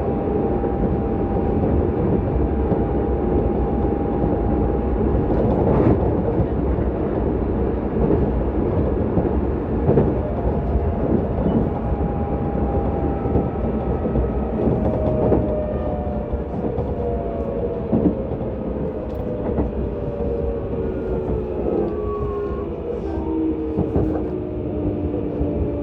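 Keisei 3700 series train's Toyo GTO-VVVF inverter and traction motors heard from inside the car, over steady wheel-and-rail rumble with a few rail-joint clacks. In the second half the inverter's several tones slide steadily down in pitch as the train brakes for a station stop.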